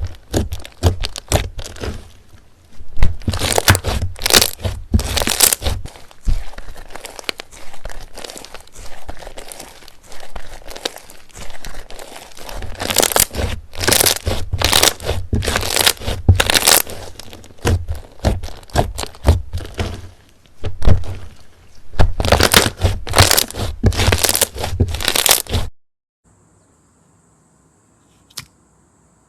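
Slime being squeezed and pressed by hand, with dense, irregular crackling and popping. It cuts off abruptly near the end, leaving a couple of faint clicks.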